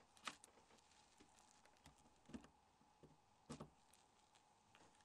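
Near silence with a few faint clicks and taps from a service tool handling a mobile phone's small parts.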